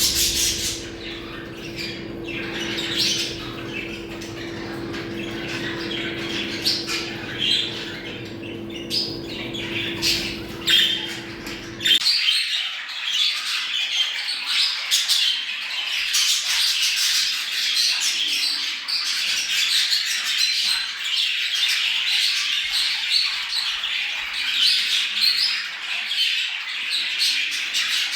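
A flock of budgerigars chattering and warbling nonstop, many overlapping chirps and squawks: the excited chatter of budgies in breeding condition. A steady low hum underneath cuts off suddenly about twelve seconds in, and the chatter after it is denser.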